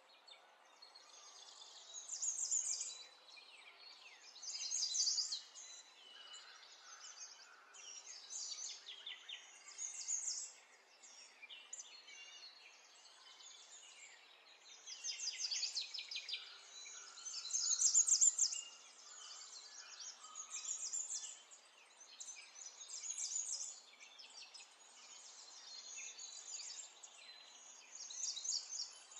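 Small birds singing: short, high, trilled phrases repeating every two or three seconds over a faint steady outdoor hiss.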